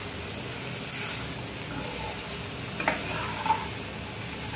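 Potato, onion and paneer stuffing frying and sizzling in a non-stick kadai as it is stirred and turned with a metal slotted spoon. There are two sharp clinks of the spoon against the pan about three seconds in.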